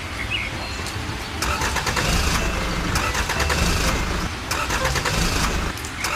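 Tractor engine running with a rapid, even clatter, growing louder about a second and a half in.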